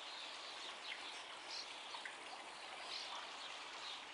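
Faint outdoor ambience with a few short, distant bird chirps over a steady hiss.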